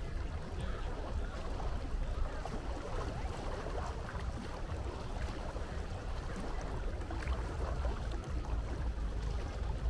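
Sea water washing and lapping steadily, under a constant low rumble.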